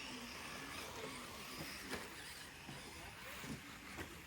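Battery-powered radio-controlled rally cars running on the track: a steady hiss of motors and tyres with brief swells as cars pass.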